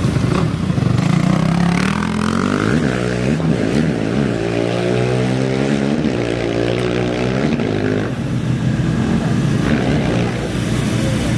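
Off-road race engines of dirt bikes or quads revving and pulling away, their pitch rising and falling between about two and eight seconds in, over a steady low engine rumble.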